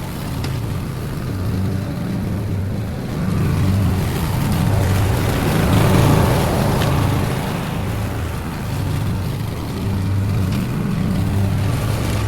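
Lawn mower engine running steadily, its level rising and falling every few seconds as it works.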